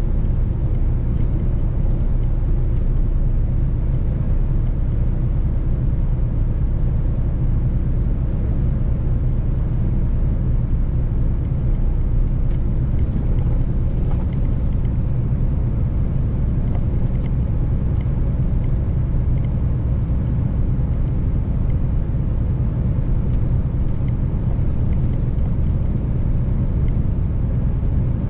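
Mercedes-Benz truck driving at a steady speed: a steady low rumble of engine and road noise.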